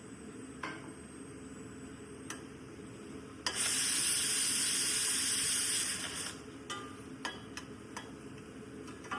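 A cooking pan sizzles suddenly and loudly for nearly three seconds, then dies down. Scattered light clicks of a utensil come before and after it.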